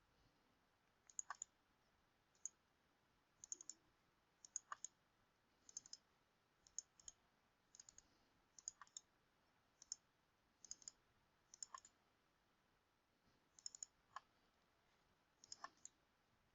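Faint computer mouse and keyboard clicks, in small clusters of two to four about once a second.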